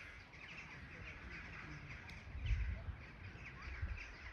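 Birds chirping and calling repeatedly in short notes, over a low rumble that swells briefly about two and a half seconds in.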